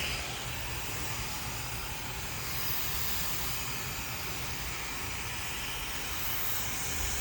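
Hair dryer running steadily, a constant rush of air.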